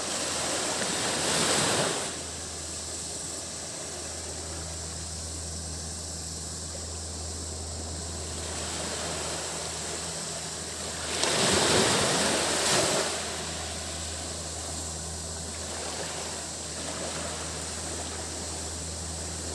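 Sea waves washing onto the beach, with two larger swells: one about a second in and one about eleven to thirteen seconds in. Cicadas keep up a steady high drone throughout, and a low steady hum lies underneath.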